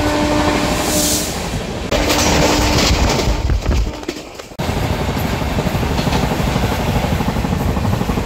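Passenger express train running at speed: a loud, steady rumble and rattle of the coach and wheels on the track, with a steady hum over it for about the first second. The noise drops away briefly about four seconds in, then comes back.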